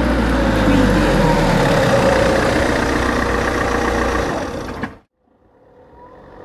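Car engine running close and loud on an asphalt approach, with a steady low hum and a note that dips slightly about a second in. It cuts off abruptly about five seconds in, and a second car is then heard faintly approaching over gravel and dirt, growing steadily louder.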